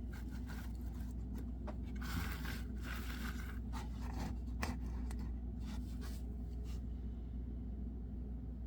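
A carving knife cutting white birch wood in a series of short, irregular scraping cuts, with one sharper snick near the middle; the cutting stops about seven seconds in, leaving a steady low hum.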